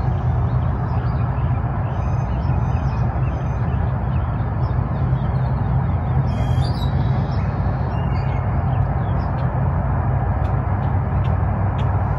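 Steady low background rumble with birds chirping faintly now and then, a few calls about two seconds in and again around six to seven seconds in.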